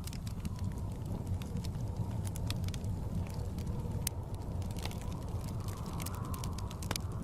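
Wood fire crackling in a fireplace, with irregular sharp snaps and pops, over a steady low rumble of blizzard wind.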